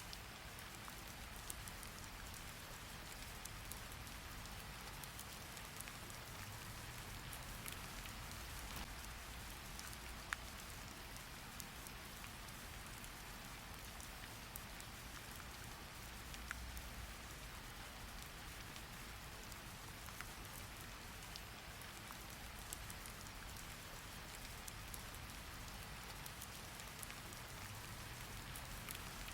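Steady rain, an even hiss with scattered faint ticks of drops.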